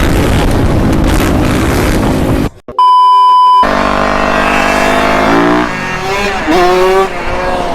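Loud engine and rushing sound that cuts off suddenly, then a steady electronic beep tone for under a second, then a Yamaha YZ250F four-stroke dirt bike engine running, its pitch dropping as the revs fall.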